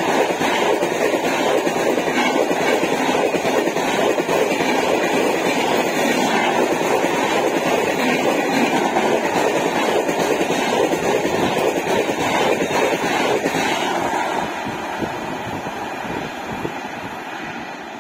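Express train of LHB passenger coaches running past at speed: a loud, steady rushing of wheels and air with no horn, fading gradually from about fourteen seconds in.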